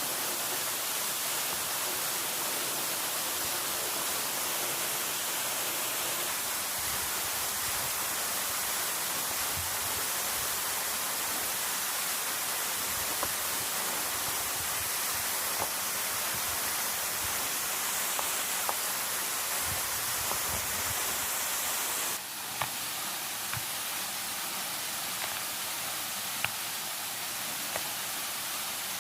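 Steady rushing water noise, an even hiss, with a few short sharp ticks scattered through the later part. The sound shifts slightly and drops a little in level about three-quarters of the way through.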